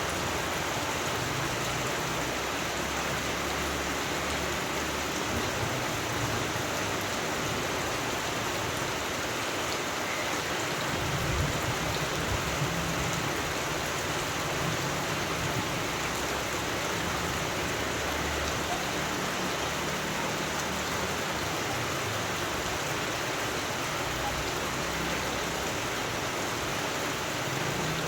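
Steady rain falling, an even hiss with no break, with a faint low rumble near the middle.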